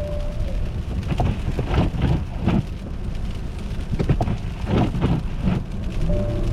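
Car driving over an icy, slushy road: a steady low rumble with an irregular crackling hiss of the tyres breaking and churning through ice.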